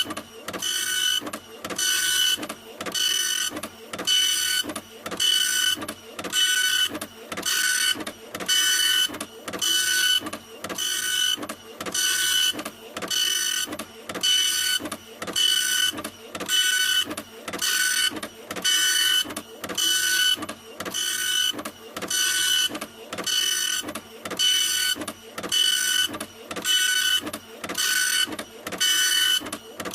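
Printer running continuously, its mechanism passing back and forth in an even rhythm of about one stroke a second, each stroke carrying a steady motor whine.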